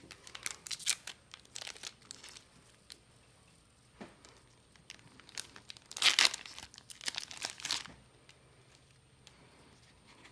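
Foil booster pack wrapper crinkling and being torn open, with bursts of crackle in the first couple of seconds and a louder cluster of tearing and crinkling from about six to eight seconds in.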